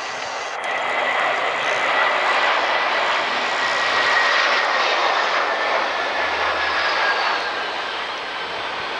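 Jet airliner's engines: a loud, steady rush with a thin high whine that slowly falls in pitch as the aircraft goes by.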